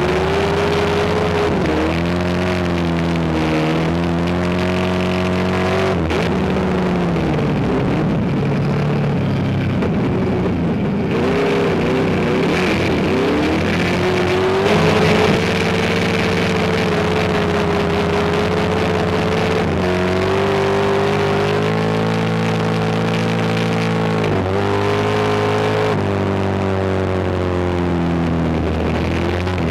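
Race car engine running hard without a break, its pitch climbing, dropping sharply and climbing again several times as it comes on and off the throttle, with a steadier stretch in the middle.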